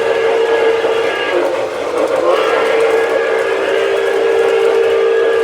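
Model steam locomotive's electronic sound system blowing its steam whistle: a short blast that trails off about a second and a half in, then a longer held blast starting a little over two seconds in. A steady hiss runs underneath.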